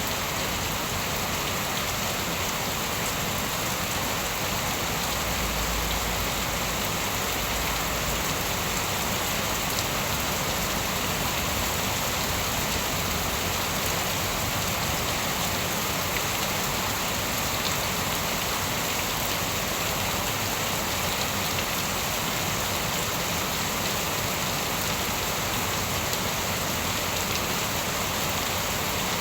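Steady heavy rain falling on surfaces: a dense, even hiss with no let-up.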